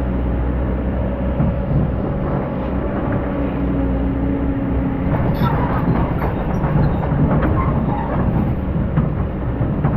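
Excavator's diesel engine running steadily under load, with scattered clanks and knocks from the machine at work and a brief whine about three to five seconds in.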